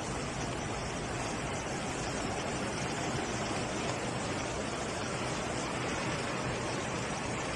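Floodwater rushing past, a steady, unbroken noise of fast-flowing water.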